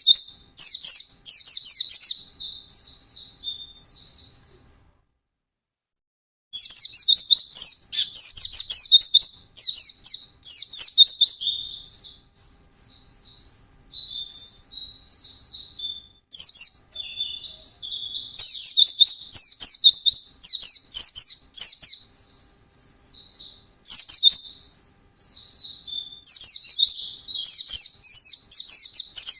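A pleci (white-eye, Zosterops) singing a fast, high-pitched chattering song in long unbroken runs. The song stops for about two seconds near the start, then runs on.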